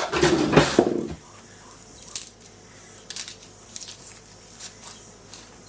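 Small onions being cut with a knife in a kitchen: a few short, crisp cuts about a second apart, after a louder burst of handling noise in the first second.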